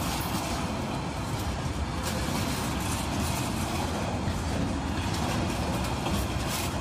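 Loaded freight wagons rolling past close by: a steady rumble and clatter of steel wheels on the rails.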